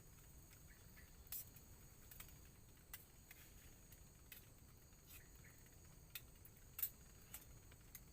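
Faint forest background: steady high-pitched insect trilling, with about a dozen light ticks at irregular intervals.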